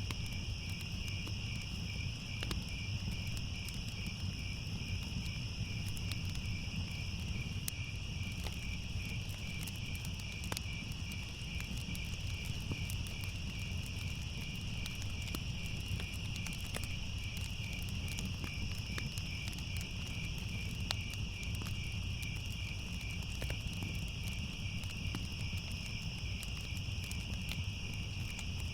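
Crickets chirring in a steady chorus with a fast, even pulse, over a low rumble and scattered sharp crackles of a fire.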